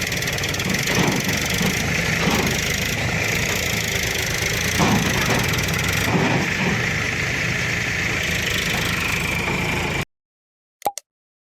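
Swaraj 735FE tractor's diesel engine running steadily. The sound cuts off abruptly about ten seconds in, followed by a few short clicks.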